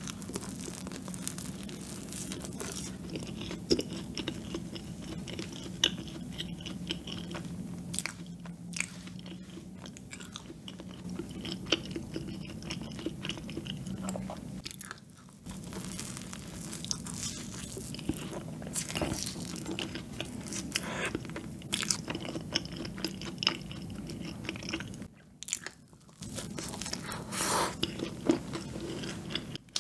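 Close-miked biting and chewing of a cream-filled donut, with many short crackling mouth clicks over a steady low hum.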